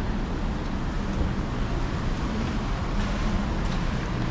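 Steady street traffic noise: a low engine rumble under a continuous hiss.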